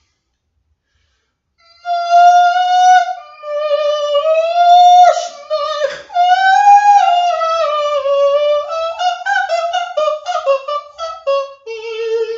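A high, wordless sung melody that glides and wavers between long held notes, breaking into quick short trill-like notes near the end. It starts after nearly two seconds of silence.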